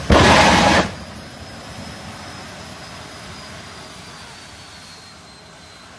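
Jet engine in a drag car giving a loud blast lasting under a second, then its turbine whining on at a lower level, the high whine slowly falling in pitch as the engine winds down.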